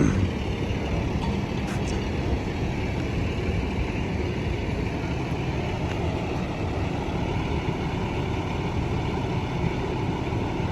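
Engines of fire trucks idling: a steady low rumble.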